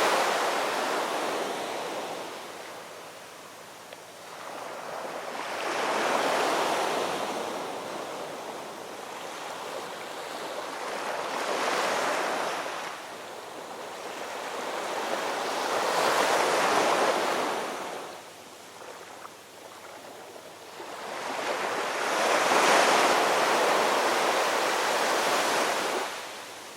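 Ocean surf: waves rolling in and washing back on the shore, the hiss swelling and fading about every five or six seconds.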